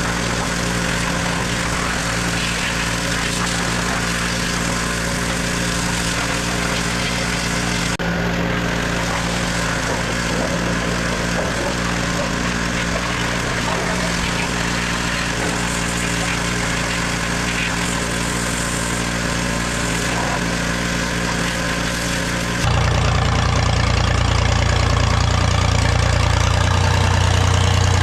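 An engine running steadily. About three-quarters of the way through it cuts abruptly to a louder, deeper engine sound.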